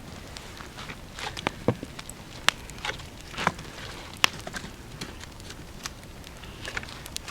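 Irregular sharp snaps and crackles with a few short rustles, the sounds of dry wood and leaves.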